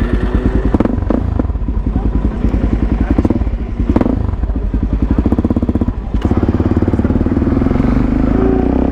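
Suzuki DR-Z400SM supermoto's single-cylinder four-stroke engine running at low revs, a fast, even thumping, with two sharp knocks about four and six seconds in and a slight rise in revs near the end.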